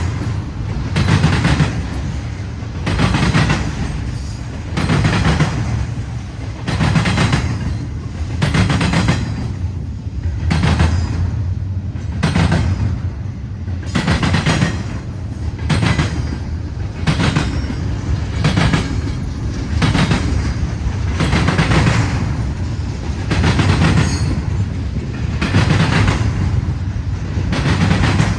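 Freight train rolling past with a steady low rumble and a regular clacking of wheels over rail joints, about one to two beats a second.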